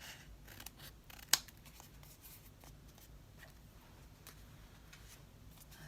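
Scissors trimming paper: a few quiet snips and handling clicks, with one sharper click about a second in.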